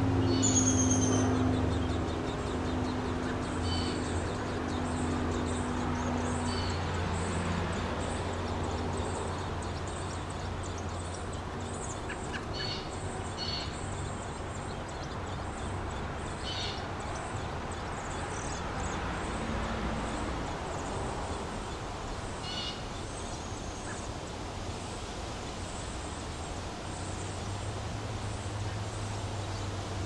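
Short high bird chirps, scattered and sparse, over a steady outdoor background. A low steady hum runs underneath, fading after the first several seconds and coming back near the end.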